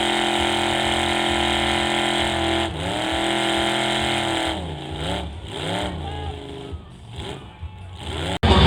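Mega truck's engine running at steady high revs, dropping in pitch about three seconds in. It is then blipped several times, each rev rising and falling, and grows fainter before cutting off suddenly near the end.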